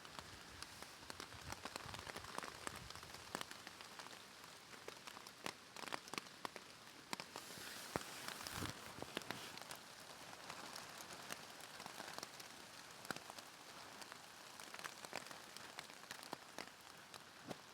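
Rain falling on polythene sheeting overhead: a steady hiss with many sharp drop impacts, heavier for a couple of seconds around the middle.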